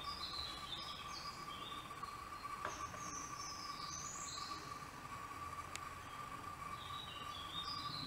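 Songbirds singing in woodland: three short runs of quick chirping notes, at the start, in the middle and near the end. A steady, single-pitched high tone sounds underneath.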